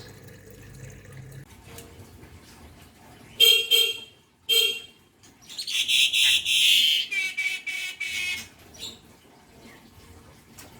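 Javan myna calling: two short, loud notes about three and a half seconds in and another about a second later. Around six seconds there is a longer harsh, rasping call, followed by a run of thinner whistled notes.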